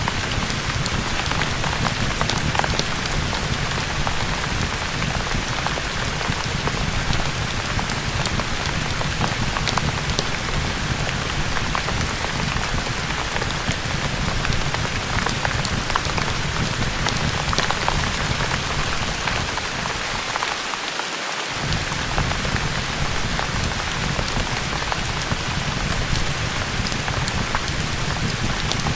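Steady rain falling on a surface, with a low rumble beneath and scattered faint ticks. The low rumble drops out for about a second about two-thirds of the way through.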